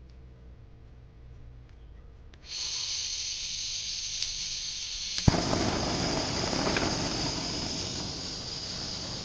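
Handheld gas torch: gas hissing from the nozzle a few seconds in, then a sharp click of the igniter, and the torch lit and burning with a steady rushing noise over the hiss.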